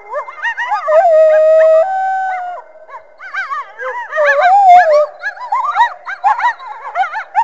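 A group of coyotes howling and yipping together. Several voices overlap: a long held howl about a second in, then a fast chorus of short rising-and-falling yips.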